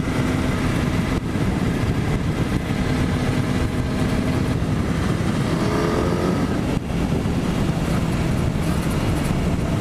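Motorcycle engine running at road speed under loud wind rush. It pulls up in pitch for about a second past the middle, then drops away briefly, as at a gear change, and settles at a lower steady note.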